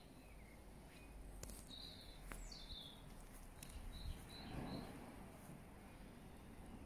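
Faint bird chirps: a few short high calls, a falling call about two and a half seconds in, and a quick run of short notes around four seconds in. A soft rustle comes just before five seconds.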